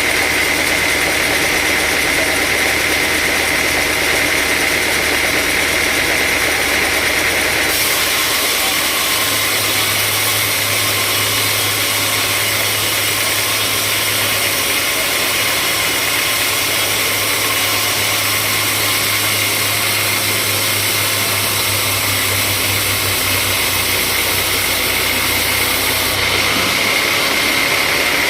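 Sawmill machinery running steadily: an engine-like drone under a high, steady whine. The hiss shifts in tone about a quarter of the way in and shifts back near the end.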